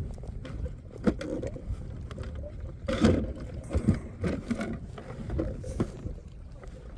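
Scattered clicks, knocks and rustles of fishing tackle being handled while someone searches through gear for a sinker weight.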